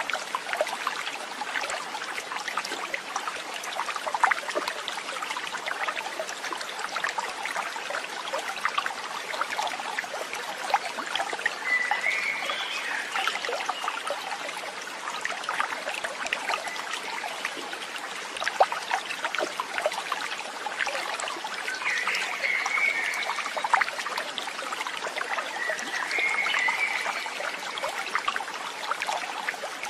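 Steady trickling, babbling water like a small stream, with three brief warbling calls high above it, about twelve, twenty-two and twenty-six seconds in.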